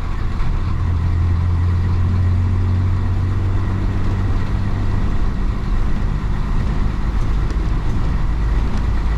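The 1966 Isuzu BXD30 bonnet bus's DA640 diesel engine running as the bus drives. Its steady low hum drops to a lower note about halfway through.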